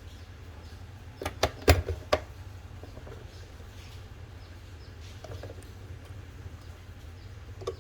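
Handling of the Krups GVX 2 coffee grinder's parts. About a second in there is a quick run of four or five sharp clicks and knocks, then a few faint ticks and a single click near the end, over a steady low hum.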